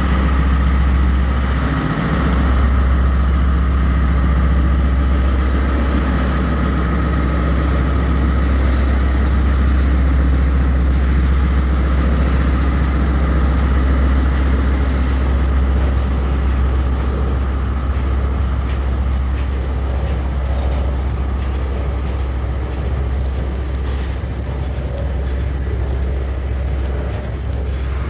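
Freight train's container wagons rolling steadily past, a continuous low rumble of wheels on rail.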